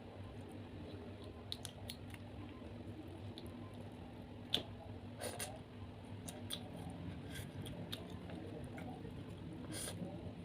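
Close-up handling and eating of large prawns: scattered sharp clicks and short wet crackles of shell being broken and peeled, with squishy chewing, over a steady low hum.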